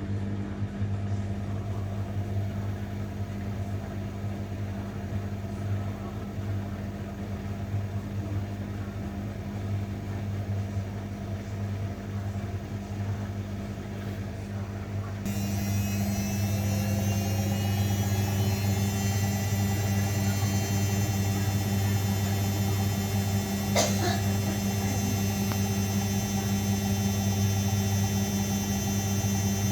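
Zanussi washing machine running with a steady motor hum. About halfway through it grows louder and a faint rising whine comes in, with a single click a little later.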